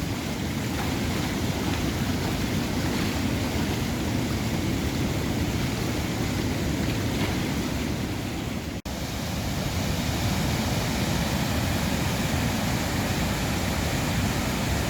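Steady rush of high floodwater pouring over a river weir, a deep, even noise. It breaks off for an instant about nine seconds in.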